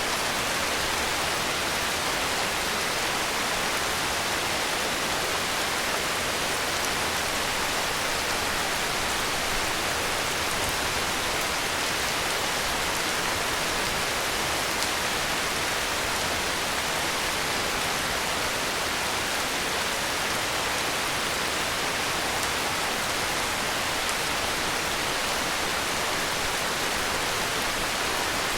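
Heavy rain falling in a steady, even hiss that doesn't change.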